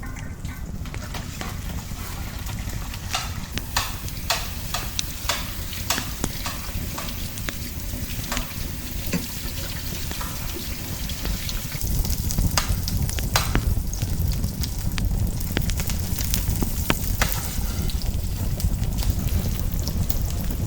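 Food being stirred in a pan, a utensil clicking and scraping against it again and again, over a steady low rumble that grows louder about two-thirds of the way through.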